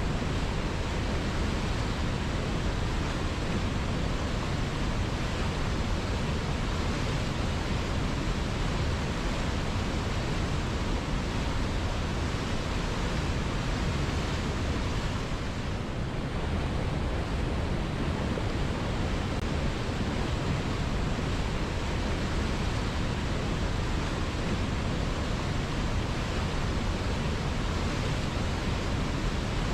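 River water flowing, a steady rushing noise with no pauses or distinct splashes.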